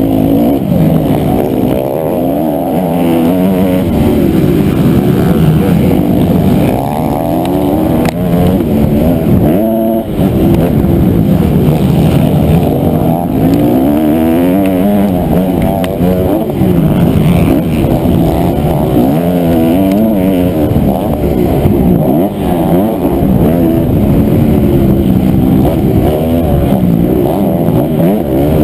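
Honda CRF250R's single-cylinder four-stroke motocross engine under hard riding, revving up and dropping back again and again as the rider works the throttle and gears, with a brief drop in revs about ten seconds in.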